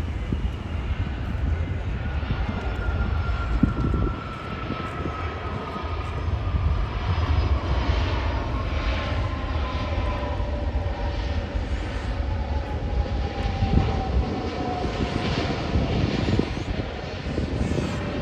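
Jet airliner engines running with a deep rumble and a whine that slowly falls in pitch over several seconds.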